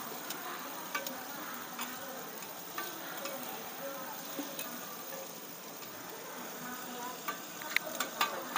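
Oyster omelettes (hoi tod) frying in oil on a large flat griddle pan, with a steady sizzle. Metal spatulas scrape and tap against the pan now and then, and the taps come quicker and louder near the end.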